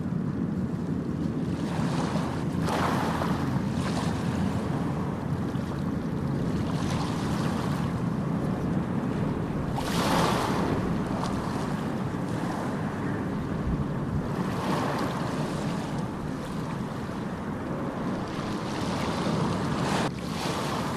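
Ocean surf: a steady low rumble of water with several waves surging and washing in, the biggest about halfway through, and wind noise on the microphone.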